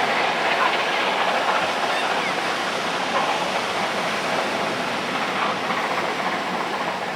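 A train rolling past, a steady noise of wheels on the rails with faint irregular knocks, easing a little towards the end.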